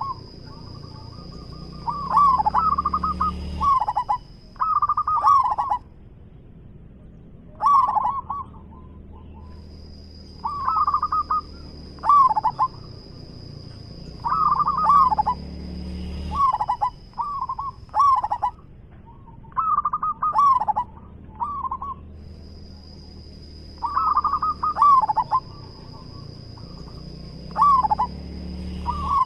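Zebra dove (perkutut) cooing: short, rolling, trilled coo phrases repeated every couple of seconds, about a dozen in all.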